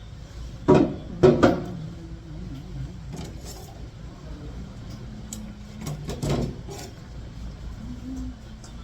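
A few sharp knocks, three close together about a second in and another about six seconds in, over a low steady hum.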